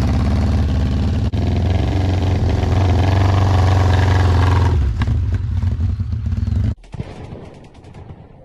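Honda CB750's air-cooled inline-four engine running and revving, its pitch rising in the middle. It cuts off abruptly near the end, leaving only faint ticking.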